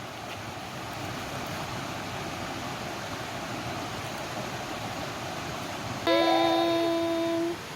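Mountain stream water running steadily. About six seconds in, a louder held pitched tone with a wobbly start sounds for about a second and a half over the water, then cuts off.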